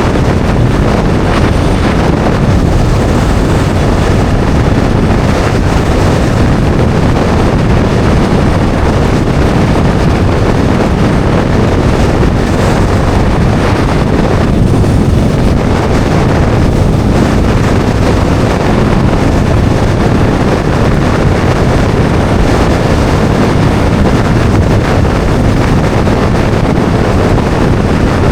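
Steady, loud wind rush over the microphone of a Bajaj Dominar 400 motorcycle riding at speed, with the bike running underneath.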